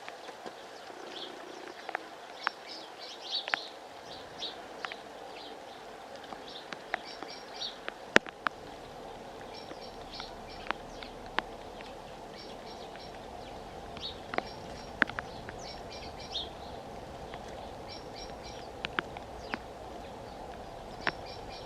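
Small birds chirping with short, high calls, scattered through with sharp clicks, the loudest about eight seconds in.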